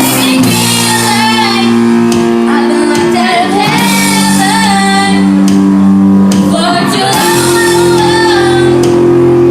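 A band playing a pop song, with a female lead voice singing over held chords.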